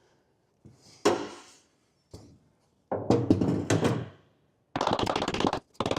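Steel pry bar clunking and scraping against a rusted steering coupler stuck on its splines: a sharp knock about a second in, a cluster of knocks around three seconds in, then a rapid rattling scrape near the end.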